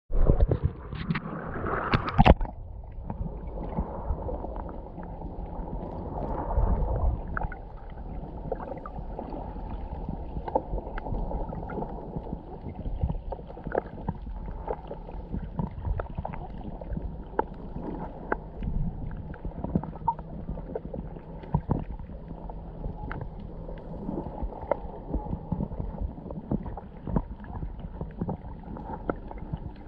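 Muffled underwater water noise picked up by a camera below the sea surface: a low steady rush with frequent small clicks and crackles. Brighter, louder splashy noises come in the first two seconds before the sound turns muffled.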